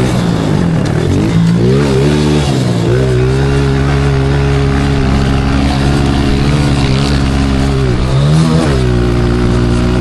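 Pit bike's small single-cylinder four-stroke engine revving as it is ridden. The pitch drops and climbs a couple of times in the first few seconds as the throttle is rolled off and back on, holds steady for several seconds, then dips and rises again near the end.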